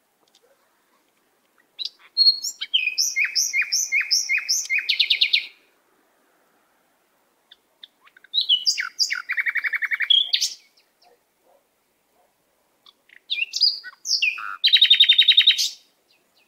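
A songbird singing three separate phrases, each a run of quick repeated chirps ending in a rapid trill, with pauses between.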